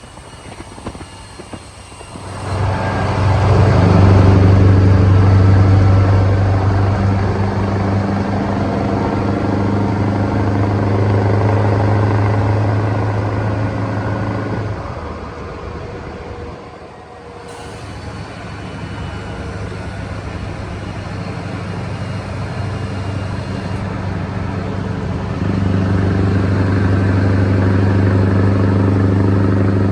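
Scania R620 V8 truck engine with loud pipes running at a steady speed, a deep even drone. It comes in loudly a couple of seconds in, fades away about halfway, then builds back up and gets louder again near the end.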